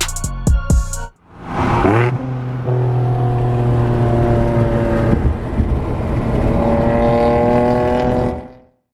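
A car engine revs up about a second in, then holds a steady drone, its pitch creeping up slightly near the end before it cuts off. Hip-hop music with heavy drum hits plays briefly at the start and stops abruptly.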